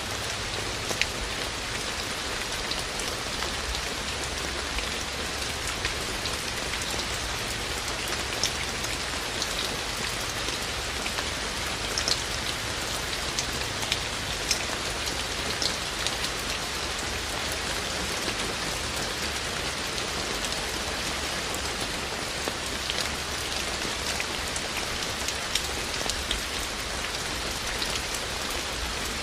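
Steady rain falling, an even hiss with scattered sharper hits of single raindrops.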